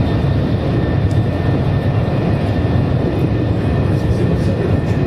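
Interior running noise of a TGV Duplex high-speed train travelling at speed, heard from inside the passenger car: a steady, loud low rumble with hiss above it.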